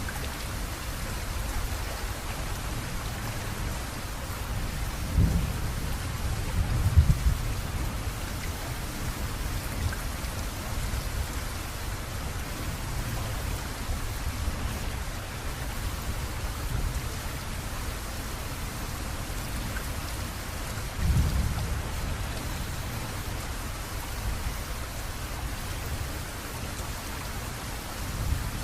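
Steady rainfall with thunder: deep rumbles roll in about five to seven seconds in and again around twenty-one seconds.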